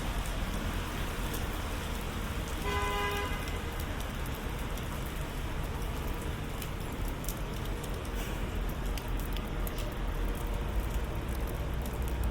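Steady rain falling on the city street and pavement, with a low rumble of traffic underneath. A short horn toot sounds about three seconds in.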